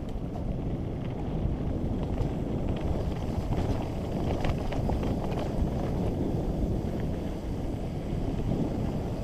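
Wind rumbling on the microphone and tyres running over dirt on a downhill mountain bike descent, with a few brief clicks and rattles from the bike about halfway through.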